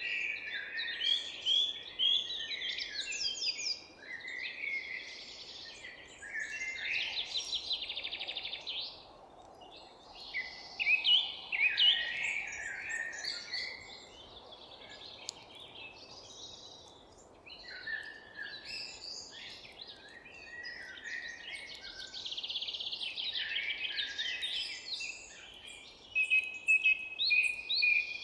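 Several songbirds singing and chirping at once, with fast trills and warbled phrases overlapping almost without a break, over a faint steady background hiss.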